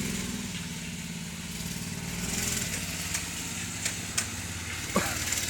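Small Baja minibike engine running at low speed, swelling a little about two seconds in, with a few short sharp clicks near the end.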